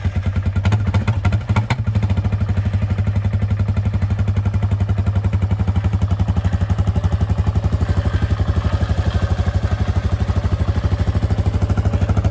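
1996 Yamaha Warrior ATV's 350 cc air-cooled single-cylinder four-stroke engine idling just after a cold start without choke, a little uneven for the first couple of seconds, then settling into a steady, even idle.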